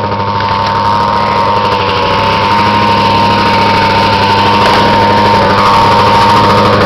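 Snowmobile engine running loud and steady.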